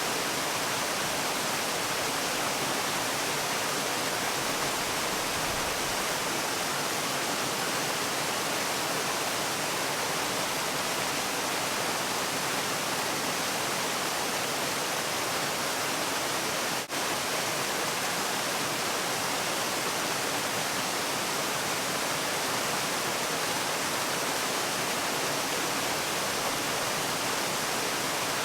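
Waterfall rushing in a steady, even wash of noise, with one momentary drop in level about two-thirds of the way through.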